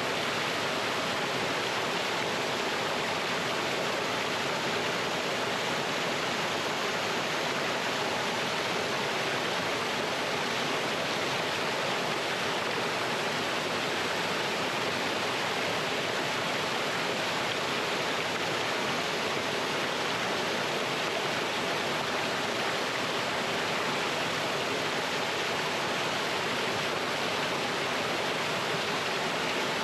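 Small mountain waterfall and stream rushing over rocks: a steady, even roar of falling water that does not change.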